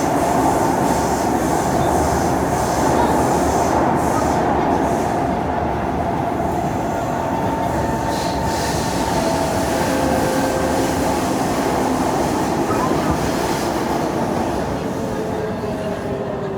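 Kawasaki C151 metro train running at speed on the North-South Line, a steady loud rumble of wheels on rail. Near the end a faint motor whine slides downward and the noise eases as the train slows for the next station.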